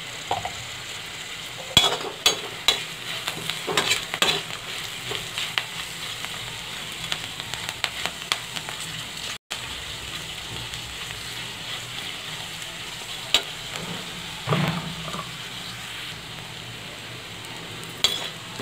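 Pumpkin peels and seeds sizzling as they fry in ghee in a kadhai. A steel spatula scrapes and clicks against the pan as they are stirred, in spurts a couple of seconds in, again past the middle, and near the end.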